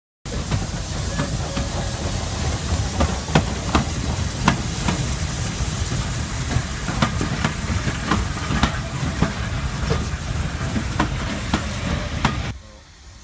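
Steam train in motion: a steady hiss and rumble with many sharp metallic clanks and knocks scattered through it. The sound cuts off suddenly near the end.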